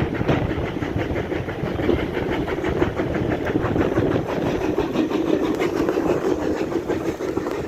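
Passenger train carriage running along the track: a steady rumble with a continuous fine rattle and clatter of wheels on rails.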